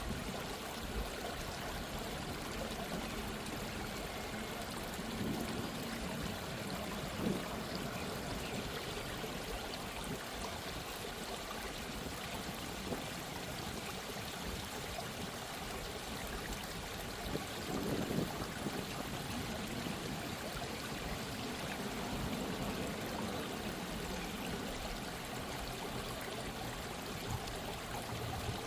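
A gently running stream: steady babbling and trickling water, with a few slightly louder splashes, the clearest about 7 and 18 seconds in.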